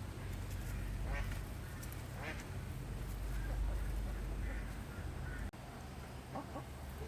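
Farm waterfowl calling: several short calls, one to two seconds apart, over a low rumble.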